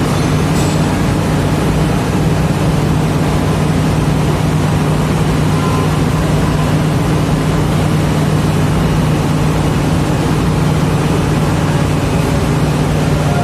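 Heavy diesel engine running steadily at a constant speed, with a deep, even hum.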